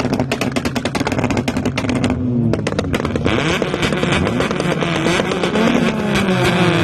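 Car engine revved hard in a burnout, crackling rapidly for the first two seconds, then with the revs swinging up and down; a hiss of higher noise joins about three seconds in.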